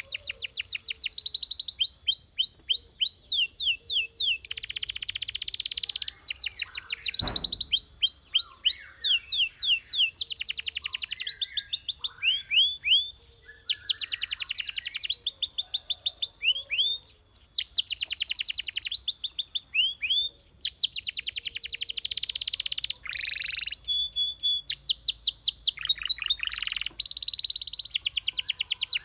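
Belgian canary singing a continuous, high-pitched song of fast trills and rolls, each run a rapid series of repeated notes before switching to the next. A single short knock sounds about seven seconds in.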